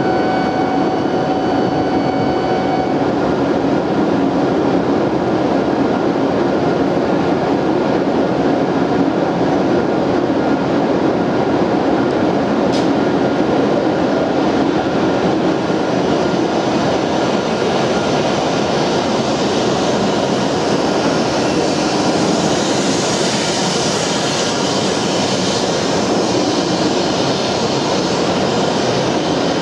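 E7 series Shinkansen train standing at the platform, its onboard equipment running with a steady hum and hiss. A few faint steady tones stop about three seconds in, and the hiss grows brighter for a few seconds past the twenty-second mark.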